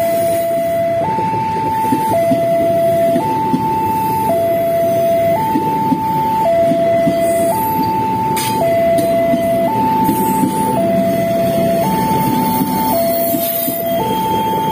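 Railway level-crossing warning alarm sounding its electronic two-tone signal, a lower and a higher tone alternating about once a second, warning of an approaching train. A steady rumble runs underneath.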